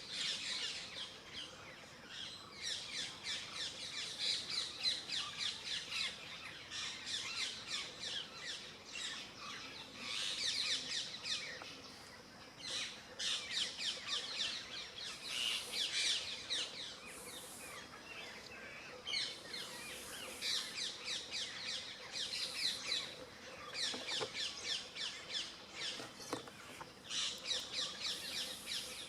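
Many small birds chirping and twittering together, dense runs of quick high chirps that swell and ease off every few seconds.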